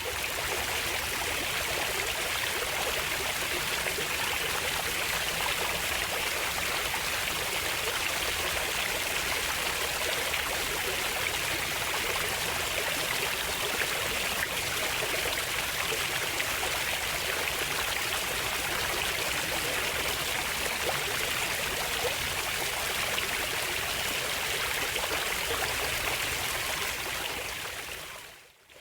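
Steady rush of a flowing stream, an even water noise without breaks. It fades in at the start and dips out briefly near the end.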